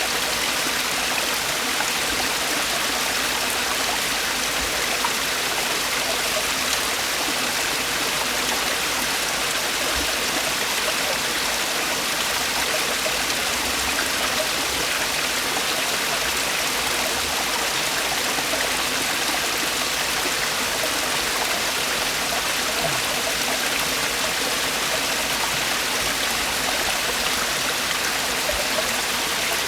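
Mountain valley stream with water falling over rocks, a steady rushing splash that holds even throughout.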